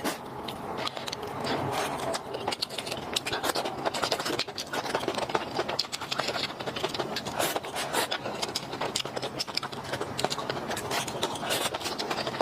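Close-miked eating and food-handling sounds: a dense, irregular run of small clicks and crackles.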